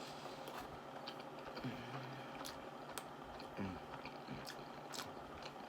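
Close-miked chewing of food, with sharp wet mouth clicks every second or so and a few short low hums of pleasure.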